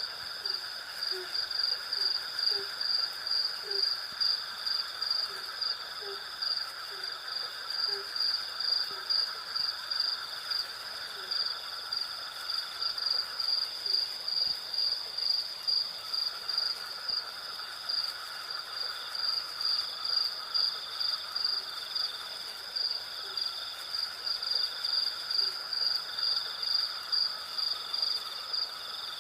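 Night insect chorus: crickets chirping in a steady pulse of about two chirps a second over a continuous lower insect buzz, with short soft low calls repeating through the first half.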